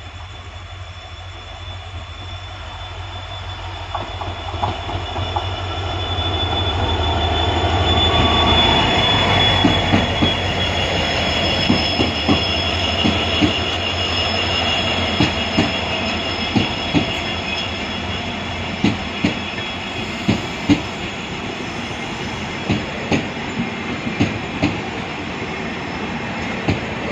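Passenger train passing on the adjacent track: the locomotive grows steadily louder as it approaches, then the coaches roll by, wheels clicking over rail joints with a thin, steady wheel squeal.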